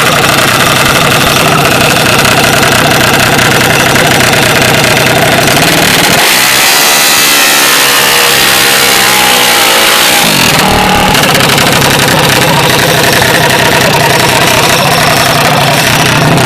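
Mini bike engines running loud and constant, with the engine pitch bending up and down for a few seconds around the middle.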